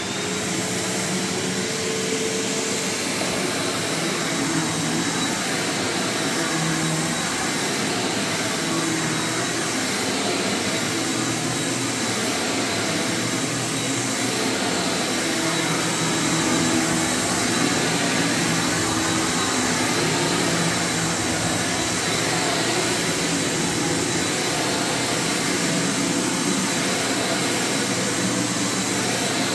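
Panasonic MC-UG223 upright bagged vacuum cleaner running steadily, its motor giving a constant rushing sound with a thin, steady high whine over it.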